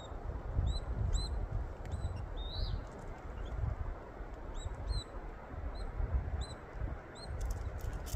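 A bird giving short, high, hooked chirps, about one or two a second at irregular spacing, over a loud, uneven low rumble.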